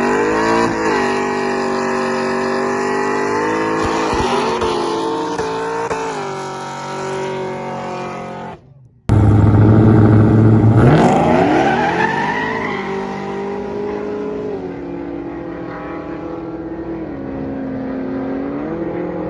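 Cars launching and accelerating at full throttle, the engine pitch climbing steeply and dropping back at each upshift. About nine seconds in the sound cuts off abruptly, then a second launch climbs through the gears the same way before running on more steadily.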